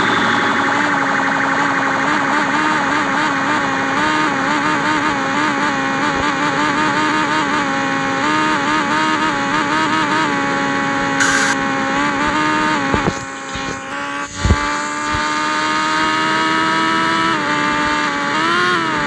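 Yamaha XJ6 inline-four engine running through a bare, open exhaust pipe, held at a steady high engine speed while riding. About two-thirds of the way in the note drops briefly as the throttle comes off, with a short knock, then comes back steady.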